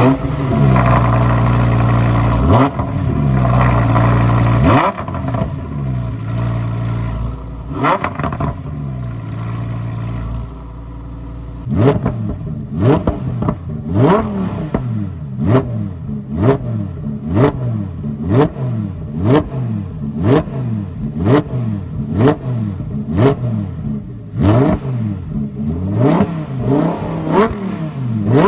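A Lamborghini's engine, breathing through a NOBLESSE aftermarket exhaust, revved while stationary. It holds a loud, steady high-rev note for the first few seconds, then drops back. From about twelve seconds in comes a long series of quick throttle blips, roughly one a second, each rev rising and falling sharply.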